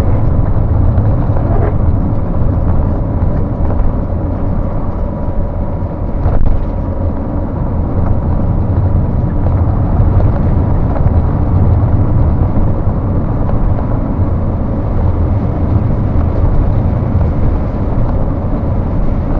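Steady low rumble of a vehicle driving on the highway, with engine and road noise heard from inside the cab.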